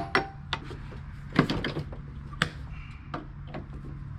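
Scattered sharp metal clicks and knocks as tight retaining clips on a Gravely mower deck are worked loose by hand, with a cluster of quick clicks about a second and a half in. A steady low hum runs underneath.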